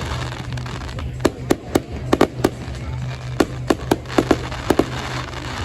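Fireworks going off: an irregular run of about a dozen sharp bangs and pops over a crackling hiss, with a steady low hum underneath.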